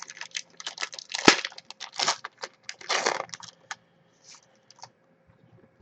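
A trading-card pack's wrapper being torn open and crinkled: a quick run of crackles and tearing noises that thins out after about three and a half seconds to a few soft rustles.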